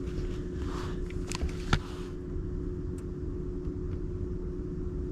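Steady low hum and rumble with a faint steady tone running through it, and a few light clicks and a rustle in the first two seconds.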